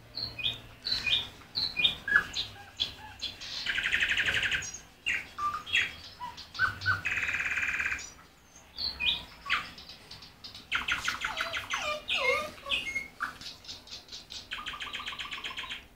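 Recorded bird chirps played from a mobile phone inside a spectacles case: a run of short whistled chirps and falling notes, broken four times by buzzing trills about a second long.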